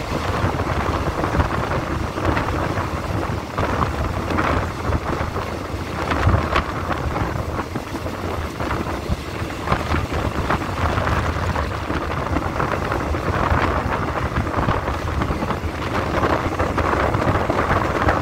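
Steady running noise of a passenger train on the track, heard at the open carriage window, with wind buffeting the microphone and a few faint knocks from the wheels and rails.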